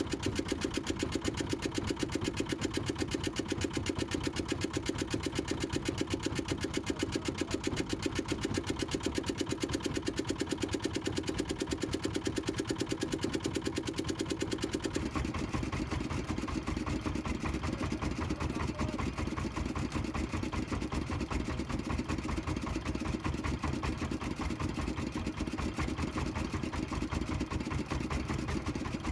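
Small fishing boat's engine running steadily with a fast, even beat; its tone shifts about halfway through.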